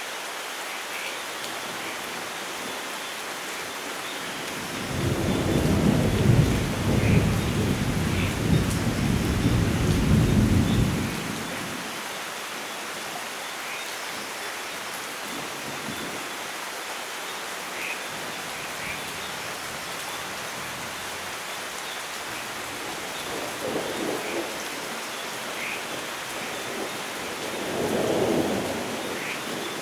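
Steady heavy rain with a long rolling thunder rumble about five seconds in, lasting some six seconds and the loudest thing here, then two weaker, shorter rumbles near the end. Faint short chirps come through the rain now and then.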